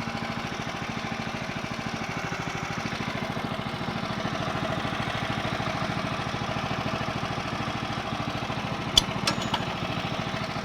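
The Woodland Mills HM130 sawmill's 14 HP Kohler engine running steadily at a constant speed. Three sharp clicks stand out a little after nine seconds in, the loudest the first.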